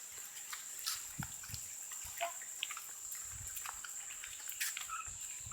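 Pigs wallowing in mud: scattered short low grunts and wet squelches, with small clicks and faint bird chirps.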